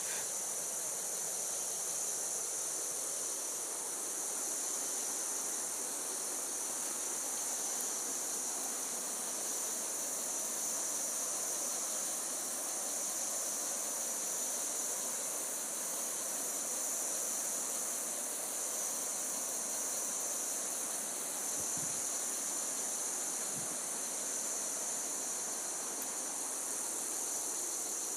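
Rainforest insect chorus: a steady, high, unbroken shrill with no clear pauses, over a soft haze of forest background noise.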